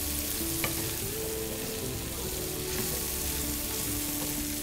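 Chicken fajita filling (chicken, onion, pepper, tomato and mozzarella) frying in a pan with a steady sizzle while it is stirred with a spatula, and a light tap of the utensil on the pan about half a second in.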